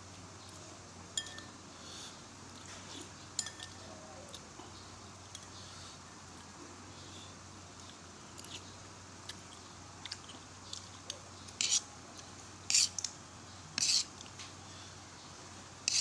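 Spoon clicking and scraping against a bowl of lugaw while eating, in scattered light taps with a few louder, longer scrapes in the second half.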